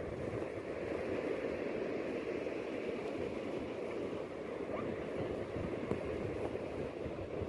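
Calm sea water washing steadily, an even rushing wash of small waves with no single wave standing out.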